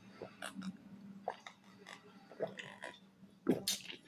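Close-mic eating sounds from a person chewing a sandwich: soft mouth clicks and smacks, with a louder sharp smack near the end.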